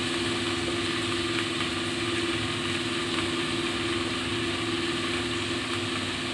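Amaranth leaves and onions frying in oil in a pan on a gas burner: a steady sizzling hiss, with a steady mechanical hum underneath.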